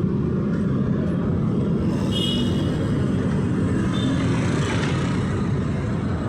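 Steady rumble of city road traffic, with a brief high-pitched squeak about two seconds in.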